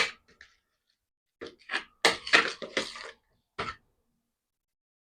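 A spoon scraping and knocking against a container while thick seasoning paste is spooned out, in a few short bursts with pauses between.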